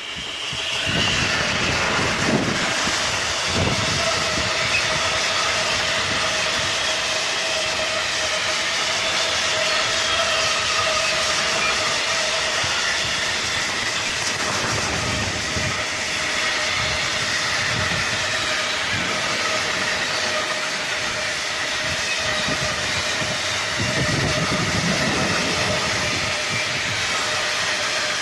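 Freight train passing at speed: two BB 27000 electric locomotives go by about a second in, then a long string of flat wagons loaded with steel slabs rolls past with steady wheel-on-rail noise and a constant ringing whine.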